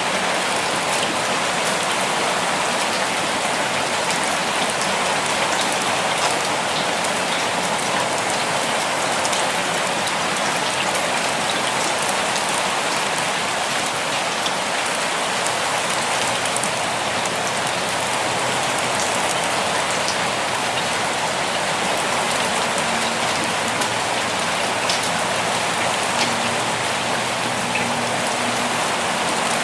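Steady, gentle rainfall, with a constant hiss and many individual drops ticking.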